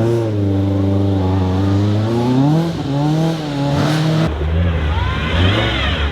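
Rally car engines at hard throttle, the pitch climbing and dropping through gear changes. About four seconds in the sound cuts to another car, its engine note rising and falling as it revs.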